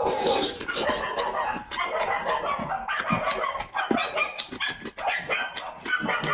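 Chickens clucking, with many short clicks and pecking-like sounds.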